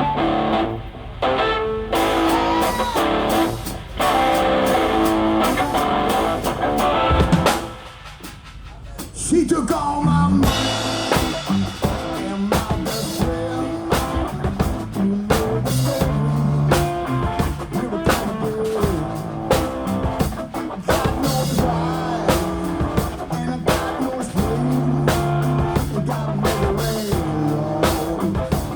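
Live blues band playing an instrumental intro. Electric guitar leads at first, the music drops away briefly about eight seconds in, then the full band comes in with drum kit and bass.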